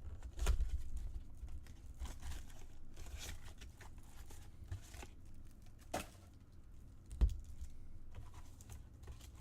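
A trading card box being opened by hand: its wrapper tearing and crinkling, and cardboard and card packs handled, with scattered knocks, the sharpest about six and seven seconds in.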